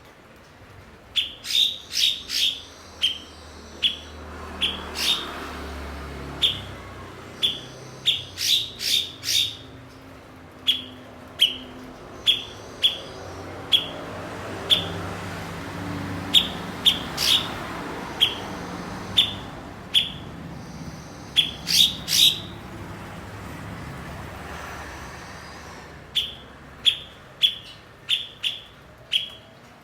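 Cucak cungkok calling: short, sharp chip notes repeated irregularly, some single and some in quick runs of three or four, over a faint low background rumble.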